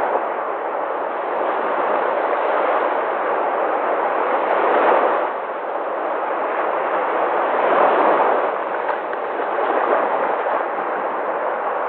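Sea waves: a steady rushing wash that swells louder twice, about five and eight seconds in.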